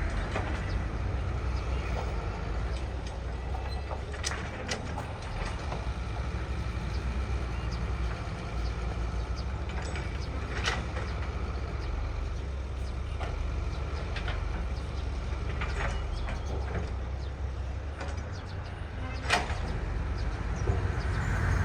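Heavy earthmoving machinery running steadily with a low engine rumble. Sharp knocks come every few seconds, the loudest about nineteen seconds in.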